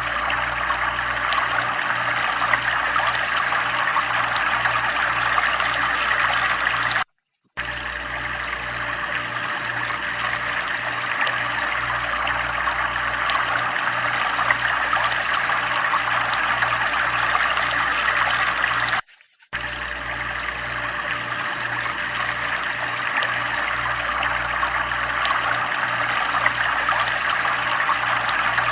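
Water running steadily from a tubewell outlet, an even rushing and splashing with a regular low pulse underneath. It cuts out for a moment twice.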